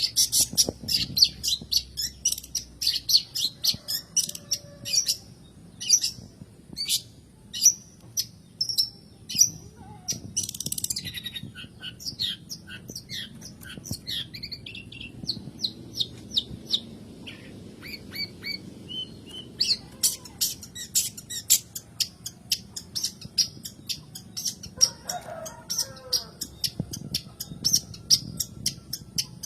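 Long-tailed shrike (cendet) giving rapid series of short, sharp, high chattering calls, thinning out in the middle and picking up again about twenty seconds in. A brief lower call comes near the end.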